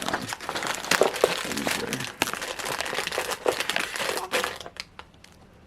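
Crinkling and crackling of a plastic snack wrapper being handled, which dies down near the end.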